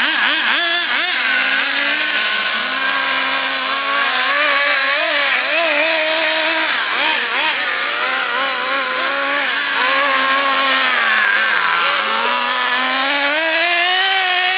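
HPI RS4 Evo3 radio-controlled touring cars running on a track, their motors' pitch rising and falling continuously as they accelerate and brake through the corners, at times more than one car at once.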